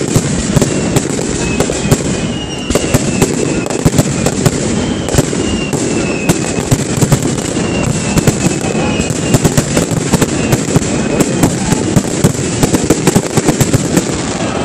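Aerial fireworks display: shells bursting overhead in quick succession, many sharp bangs and crackles that come thicker in the second half.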